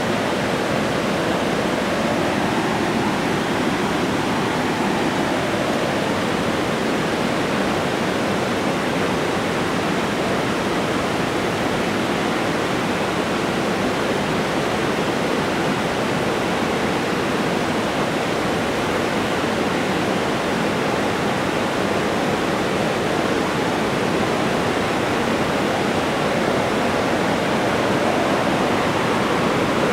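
Long freight train rolling past at a distance, heard as a steady rushing noise that does not change.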